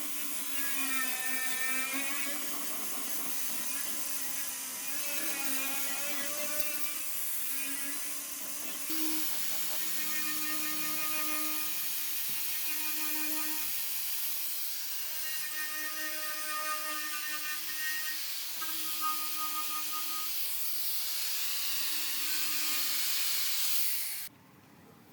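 A small high-speed power tool motor running under load, with a whine that wavers and settles in pitch over a steady high hiss. It cuts off suddenly near the end.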